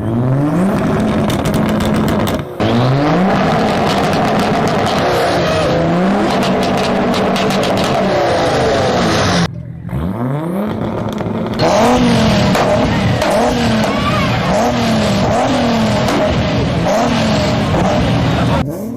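Car engine revved hard again and again through a loud exhaust, pitch rising and falling in quick blips of about a second each. The sound breaks off briefly twice.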